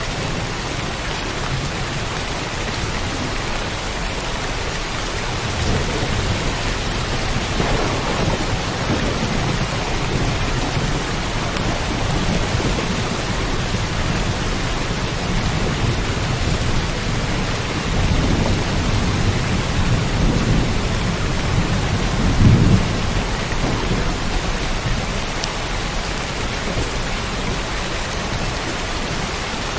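Steady rain falling, with rolling thunder swelling in several times, loudest about two-thirds of the way through.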